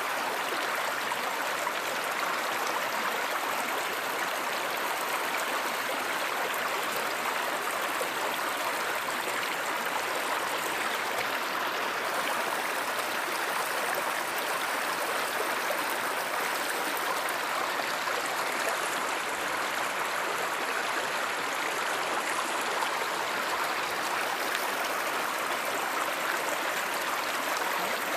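Steady rushing of a flowing stream or river, an even wash of water noise with no change through the stretch.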